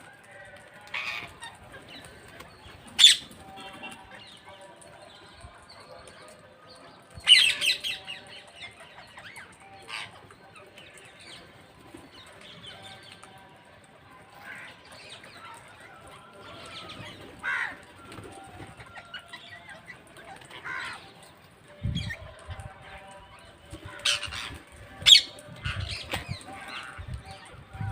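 Parrots giving short, sharp calls at irregular intervals, several seconds apart, with a few low thumps near the end.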